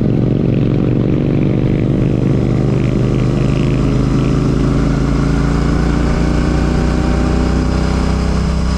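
Royal Enfield Classic 650's 648 cc parallel-twin engine running under way through an Ngage aftermarket exhaust, its note drifting slowly lower as the revs ease off, with wind and road noise underneath.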